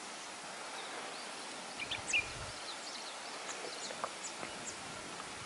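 Small birds giving short, high, sharp alarm calls over a steady outdoor hiss: a few notes about two seconds in, then a quicker scatter of thin calls in the second half.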